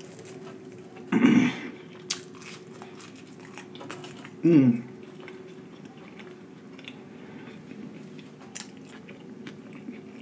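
Close-miked mouth sounds of a man eating Wendy's french fries: soft chewing and small wet clicks, with two short hums of enjoyment, about a second in and again about four and a half seconds in. A faint steady hum sits underneath.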